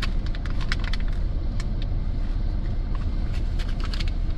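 Steady low rumble of a pickup truck idling with its heater running, with light clicks and taps scattered over it.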